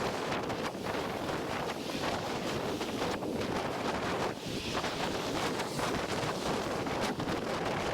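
Wind buffeting the microphone of a camera riding along on a bicycle: a steady rushing noise that flickers in gusts.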